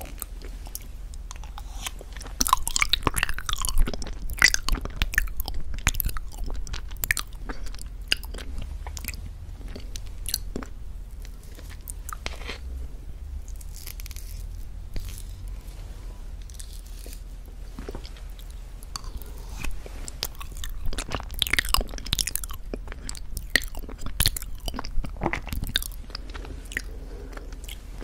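Irregular crisp crunching and crackling clicks, in two busy stretches with a quieter spell between them.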